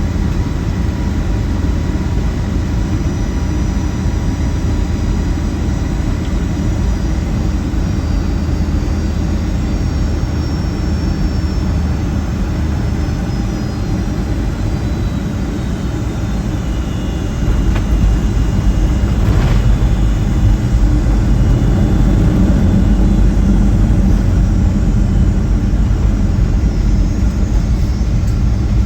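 Cabin noise inside a Boeing 757-200 during its landing: a steady engine and airflow rumble with faint falling whines, which steps up louder and deeper about two-thirds of the way through, with a single knock soon after.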